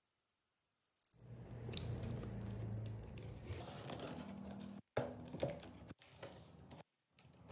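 A machine running with a steady low hum and clicking, rattling noise over it, starting suddenly about a second in and cut off abruptly several times.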